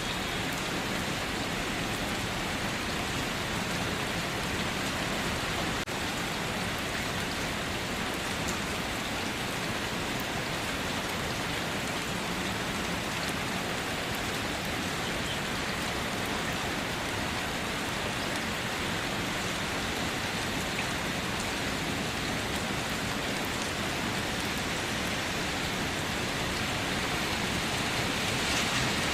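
Steady rainfall, an even hiss with scattered drops pattering on surfaces.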